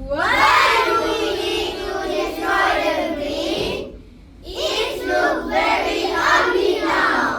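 A group of young schoolchildren singing together in unison as part of a choral speaking performance, in two long phrases with a short break about four seconds in.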